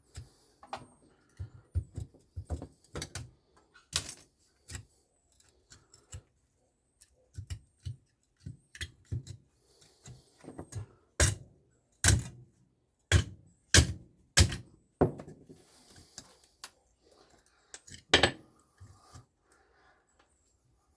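Irregular clanks, clicks and knocks of metal parts and hand tools being handled while a microwave oven is dismantled for scrap, with a few brief scraping sounds; the loudest knocks come in a cluster in the second half.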